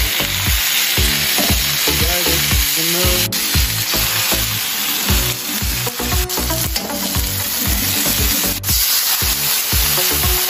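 Food sizzling steadily in a hot pan, an even hiss, under background music with a steady beat.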